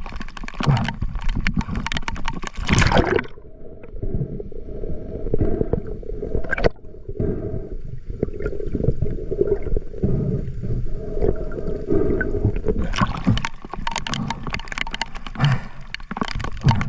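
Seawater splashing and gurgling among rocks. About three seconds in the sound turns muffled, leaving only a low bubbling gurgle, and the full splashing returns about thirteen seconds in.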